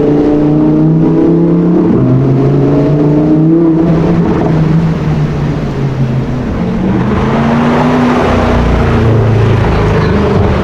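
Sports car engine running loud under load: its pitch climbs slowly, drops sharply about four seconds in, then rises and falls again while a rushing noise builds in the second half.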